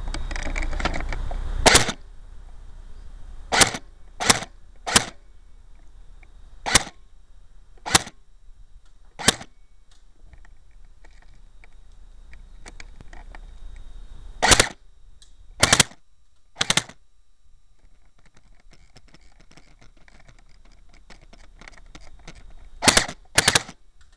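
Airsoft G3 rifle firing about a dozen single shots at irregular intervals, each a sharp crack, with two longer pauses between groups. The shots are heard from a camera microphone mounted on the rifle itself. A louder rustle fills the first two seconds.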